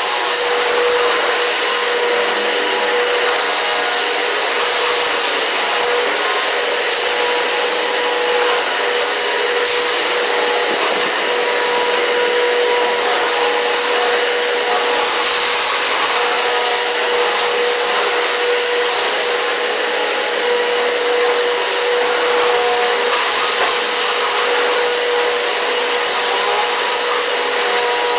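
Eureka PowerSpeed upright vacuum cleaner running steadily, its motor giving a constant whine. Brief surges of hiss come a few times as it is pushed across the floor.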